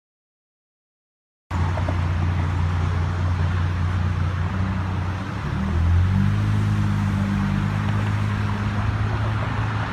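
Dead silence for about the first second and a half, then a car engine running at low speed, a steady hum that rises a little in pitch and loudness about halfway through.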